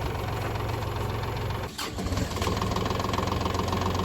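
Kubota tractor's diesel engine running steadily. It breaks off briefly just before two seconds in, then runs on with a steady higher whine added.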